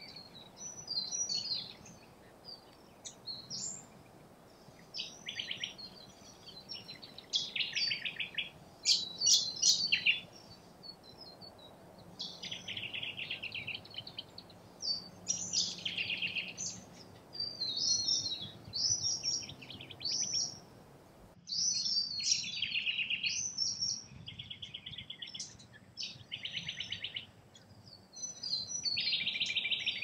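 Several birds calling at once: a busy mix of short, high chirps and repeated fast chattering trills, coming in bursts with brief gaps between them.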